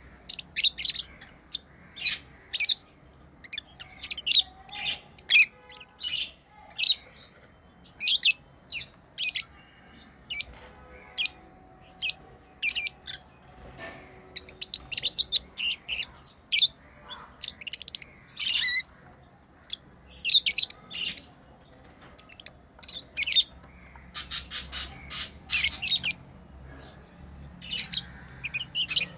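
Pet lovebirds chirping: short, sharp, high-pitched calls in quick irregular runs, thickest a little before the end.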